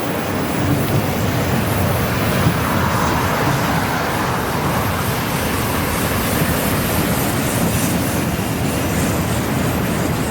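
Freight train of empty auto rack cars rolling past, with a steady rumble and rattle of steel wheels on the rails.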